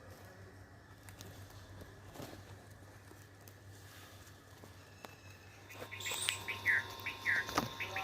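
Newborn baby birds chirping: a quick run of short, high, downward-sliding chirps that starts about six seconds in, after a faint stretch.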